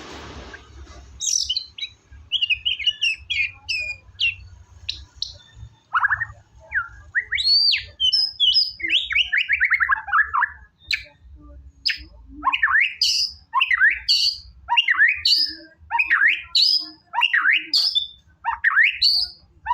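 White-rumped shama (murai batu) singing energetically: a varied run of whistles and quick note series, then a fast string of repeated sharp sweeping notes through the second half.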